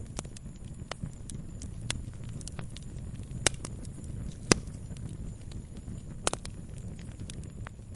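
Wood fire crackling in a fireplace: irregular sharp pops and snaps over a low steady rumble of flames, with a few louder pops around the middle.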